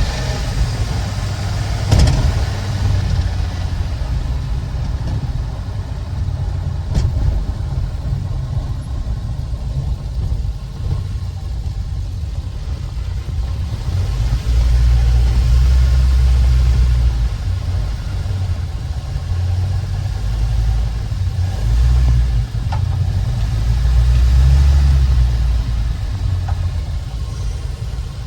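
Ford 6.8L V10 gas engine of an E-450 ambulance running with a steady low rumble that grows heavier twice, about halfway through and again near the end. A few sharp clicks sound over it. The engine is being run to check a cylinder misfire after the ignition coils of cylinders 4 and 5 were swapped.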